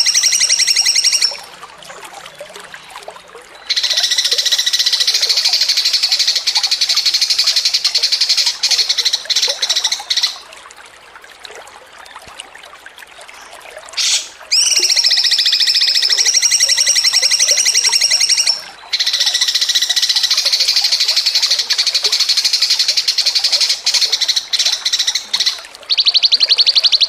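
A songbird trilling: rapid, high-pitched trills of quickly repeated notes in long bursts lasting several seconds, broken by a few short pauses.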